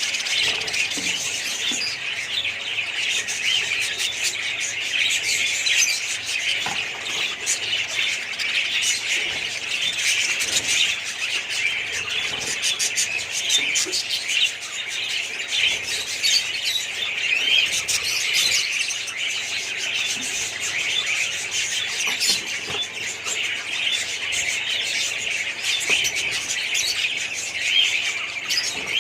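Many budgerigars chirping and chattering at once: a dense, steady twitter of overlapping calls with no pauses.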